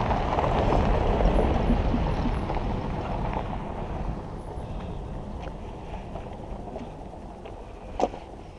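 A car driving past, its engine and tyre noise loudest about a second in and then fading away. A single short knock near the end.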